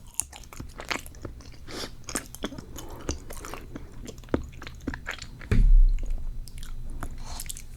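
Close-miked chewing of dense, sticky cheesecake: soft wet mouth clicks and smacks. A single low thump comes about five and a half seconds in.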